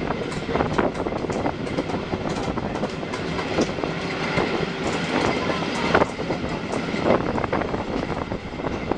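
Historic passenger train running, heard from an open carriage window: a steady rolling rumble with irregular sharp clicks of the wheels over the track.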